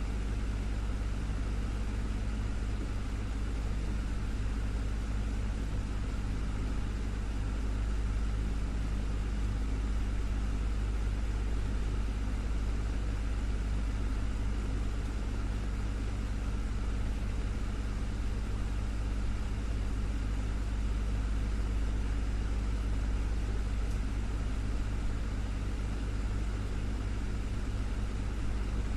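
Desktop fan running steadily: a constant low hum with a soft whoosh of moving air.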